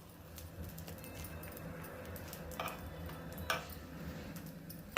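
A metal utensil clinks against a pan a few times, with a louder knock near the end, over a steady low hum.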